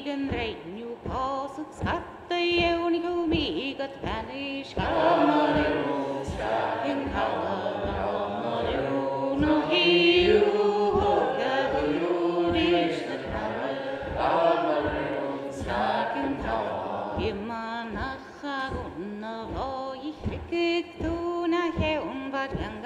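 A group singing a Scottish Gaelic milling (waulking) song in call-and-response chant, over a steady beat of thumps from the wet woollen cloth being pounded on the table.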